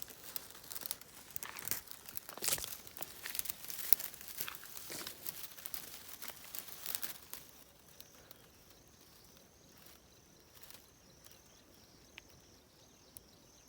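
Dry leaves and twigs crackling and rustling as someone pushes through dense brush, busiest for the first seven seconds or so. It then goes quieter, leaving a faint, steady, high insect trill, likely a cricket.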